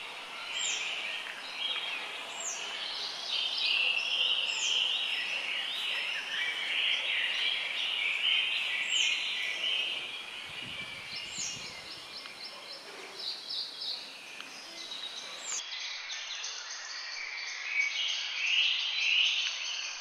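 Birds chirping and chattering, many calls overlapping, with a short falling high note repeating every second or two in the first half. The mix of calls changes abruptly about three-quarters of the way through.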